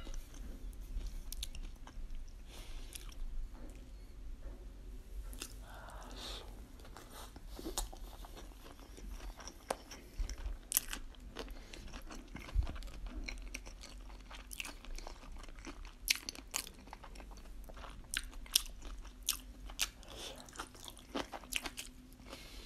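Close-miked chewing of sushi rolls: a quiet run of wet mouth clicks and smacks at uneven intervals, with a few sharper clicks.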